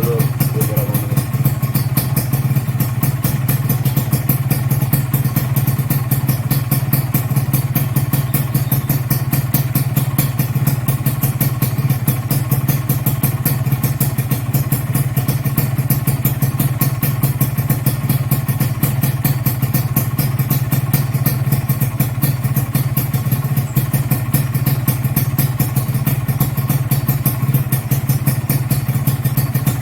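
Kawasaki Ninja RR's two-stroke single-cylinder engine running at a steady idle.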